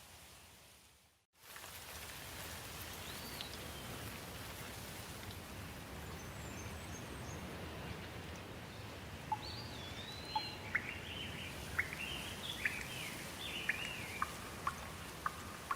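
Steady hiss of light rain that fades briefly to silence about a second in and then resumes. Birds sing a run of short, sharp chirps in the second half.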